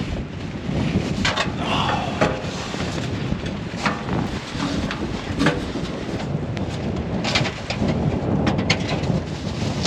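Storm wind blowing hard with a steady rumble and gusts hitting the microphone, broken by several short knocks or clicks every second or two.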